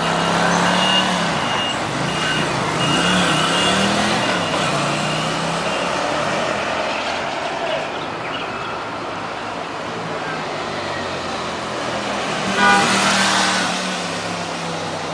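Dacota motorcycle's small engine running, its pitch rising and falling a few times in the first seconds, then holding steady. About 13 seconds in there is a brief louder burst.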